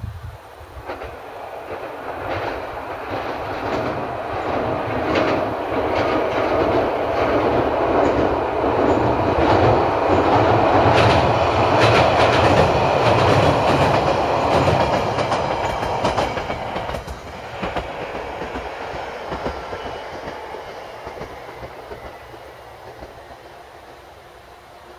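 JR Kyushu 817 series two-car electric train crossing a steel girder bridge: a low rumble with a run of clickety-clack from the wheels over the rail joints. It builds up, is loudest about halfway through, then fades away.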